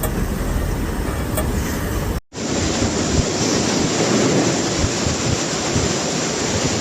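Street noise with traffic, then, after a sudden cut about two seconds in, a loud steady rush of water, likely floodwater, with wind buffeting the microphone.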